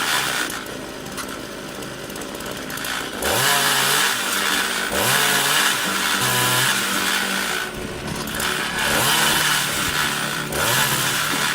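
Gas-powered saw on a homemade log-cutting stand, its engine revving up sharply and settling again about six times as it cuts through logs.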